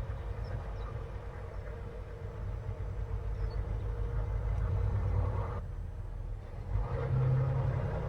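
Semi-truck's diesel engine running with a steady low rumble, heard from inside the cab; the engine note grows louder for a moment about seven seconds in.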